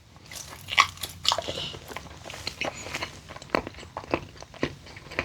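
Close-up biting and chewing of a crunchy sweet potato snack with sour cream, irregular crisp crunches between wetter chewing.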